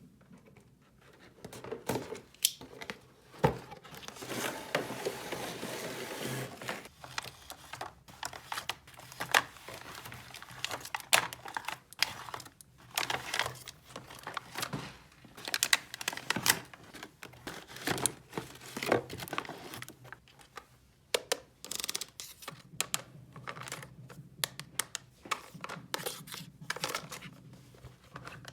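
Plastic packaging crinkling and tearing, with many quick clicks and taps of small plastic toy pieces being handled; a longer stretch of crinkling comes a few seconds in.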